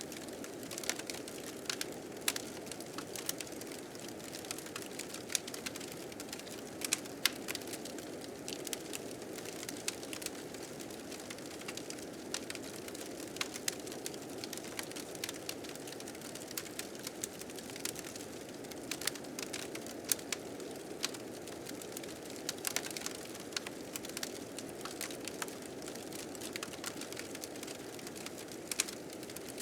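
Fire crackling with frequent sharp pops, over a steady, low-pitched rush of blizzard wind.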